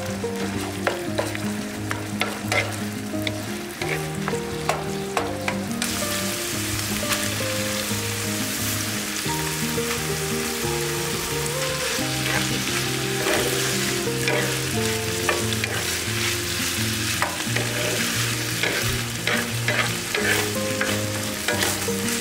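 Minced pork stir-frying in a hot griddle pan on a propane camp stove, sizzling steadily while a wooden spatula scrapes and turns it. The sizzle grows louder about six seconds in, over soft background music.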